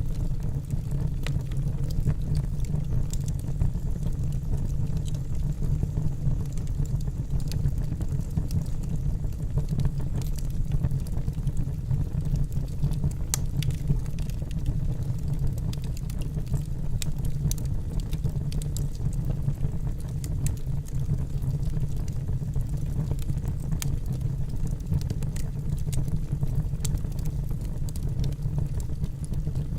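Wood logs burning in a fireplace, crackling with frequent small sharp pops over a steady low sound of the flames.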